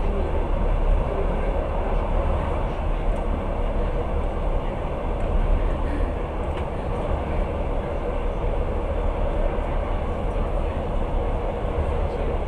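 Passenger train running, the steady low noise of its wheels on the rails heard from inside the carriage.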